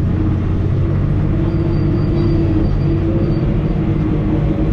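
Komatsu D65 bulldozer's diesel engine running steadily, with a faint high whine over it for a couple of seconds mid-way.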